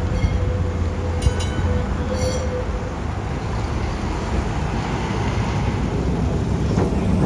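Vintage electric tram running along the track, a steady low rumble, with two brief high ringing sounds about one and two seconds in.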